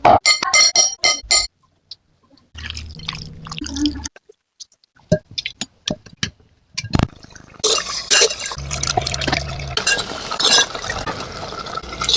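Cooking sounds while making handi chicken: a quick run of sharp utensil taps and clicks, then scattered clicks, and from about halfway on a longer stretch of liquid sounds in the pot.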